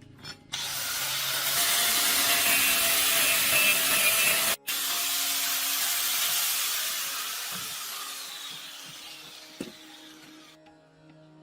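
A power tool abrading metal: a loud, steady rasping hiss that breaks off for an instant about four and a half seconds in, then resumes and slowly fades away.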